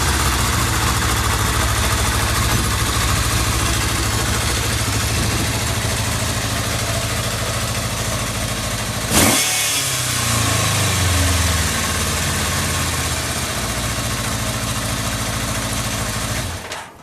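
Kawasaki GPZ550 air-cooled inline-four engine idling steadily, with a single sharp crack about nine seconds in, then shut off just before the end.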